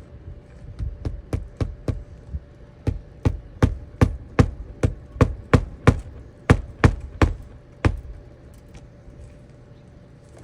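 A quick, even series of about twenty sharp knocks, roughly three a second, stopping about eight seconds in, over a faint steady hum.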